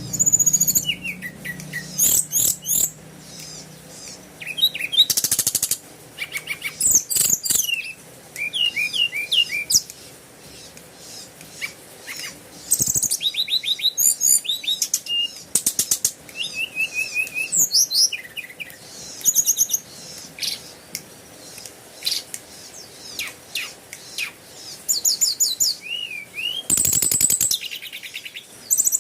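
Birds chirping and singing: quick high trills and runs of short repeated chirps, with brief pauses between phrases.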